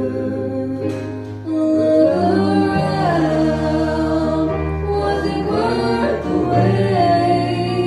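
A choir singing in harmony with sustained chords over a steady bass line, swelling about a second and a half in.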